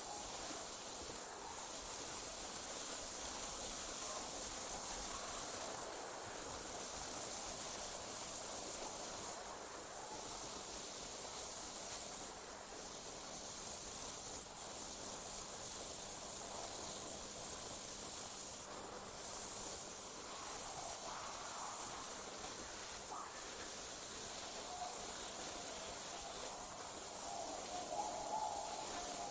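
Night insects trilling in a steady, high-pitched chorus, broken by short pauses every few seconds.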